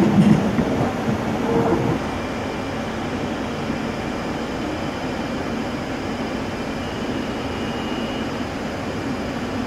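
Steady rumble and hum of trains in a station, with an ICE 1 high-speed train pulling slowly out. Louder with low swells for the first two seconds, then even, with a faint high whistle about seven seconds in.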